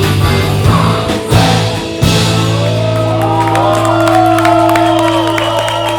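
Live rock band ending a song: full drums and guitars, then a final chord ringing out from about two seconds in, while the audience whoops and cheers over it.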